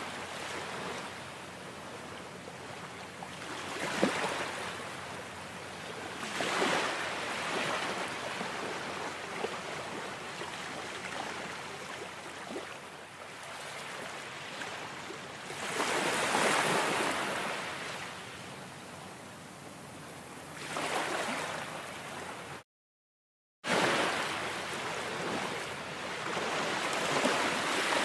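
Ocean waves washing onto a shore, the surf hiss swelling and fading every few seconds. The sound cuts out completely for about a second roughly two-thirds of the way through, then resumes.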